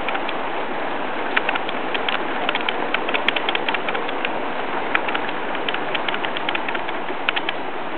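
Heavy rain coming down in sheets: a steady hiss of rainfall with many sharp clicks and splats of drops hitting nearby surfaces, several a second.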